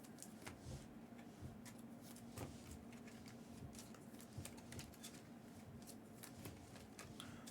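Near silence with faint, scattered clicks and rustles of trading cards and their packaging being handled.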